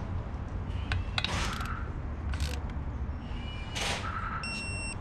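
Hand tools working on engine bolts: a few metallic clicks and rasps, with a steady low hum underneath.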